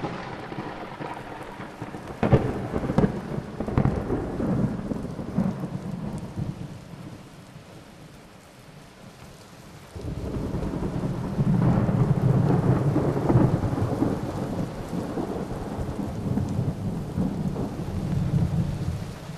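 Thunderstorm: a thunderclap cracks about two seconds in and rumbles away under falling rain. About halfway through, louder rolling thunder and heavy rain come in suddenly and carry on.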